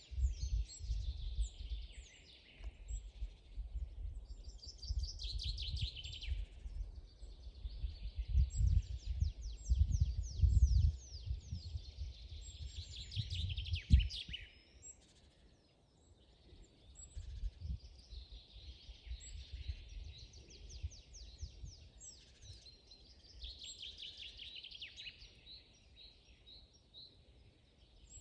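Several songbirds singing at once in a forest chorus, with fast trills and quick runs of repeated sweeping notes rising and fading in waves. Over the first half a low rumble comes and goes in gusts, the loudest thing heard, ending in a short knock about halfway through.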